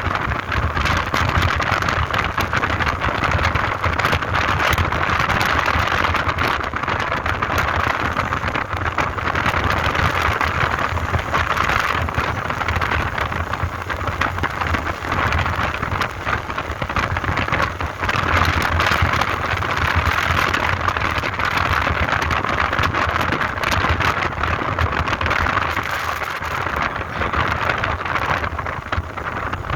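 A motorbike riding along, heard as a steady rush of wind and road noise with the engine's low rumble underneath, rising and falling gently but never stopping.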